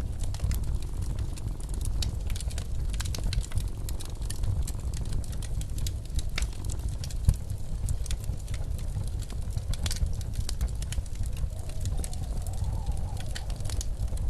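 Log fire crackling with frequent sharp pops over a steady low rumble of blizzard wind; near the end the wind briefly rises into a faint howl.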